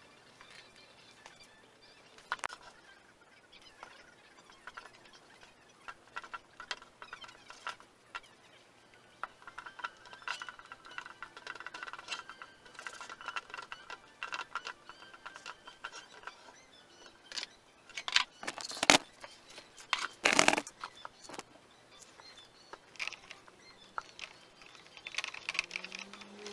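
Scattered metallic clinks and knocks of hand tools and small metal parts being handled, with a few louder knocks about two-thirds of the way through.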